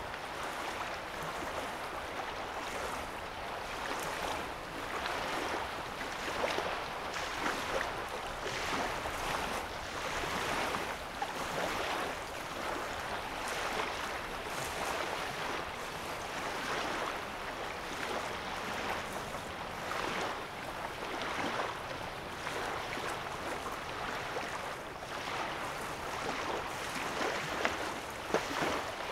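Small lake waves lapping on a sandy shore: a steady wash of water with irregular little surges about once a second, and a couple of sharper splashes near the end.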